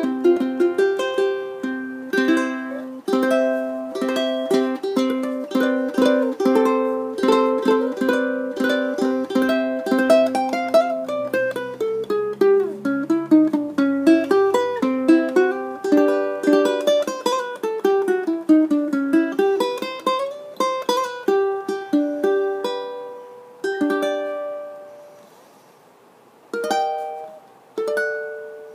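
Kanilea K1 tenor ukulele in satin-finished koa, played solo with plucked and strummed notes, melodic runs falling and rising in the middle, then slowing to a few separate chords that ring out near the end.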